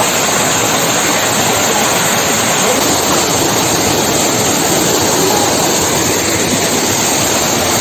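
Small waterfall and stream water rushing over rocks in a steady, unbroken rush.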